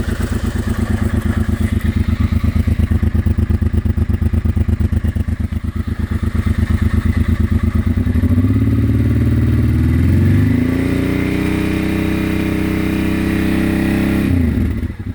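1989 Honda Transalp's V-twin, warmed up, idling with a pulsing exhaust beat through its stock exhaust, which has been opened up at the header welds and silencer can for more flow. About eight seconds in, the revs climb and are held steady for a few seconds, then fall suddenly back to idle near the end.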